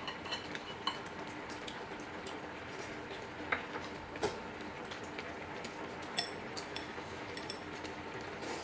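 Eating utensils clinking and tapping against dishes during a meal: scattered single light clinks, a few of them ringing briefly, over a steady low background.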